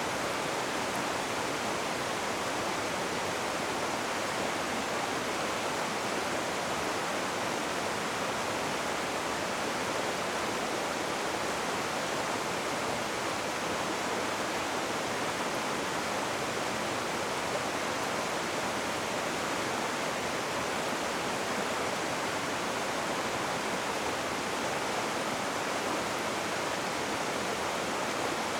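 Rushing river water: a steady, even wash of noise that does not change.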